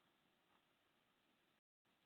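Near silence: a faint steady hiss that drops out completely for a moment near the end.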